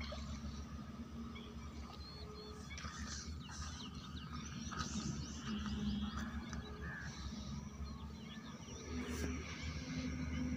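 Birds chirping and calling in many short, quick notes, over a steady low hum.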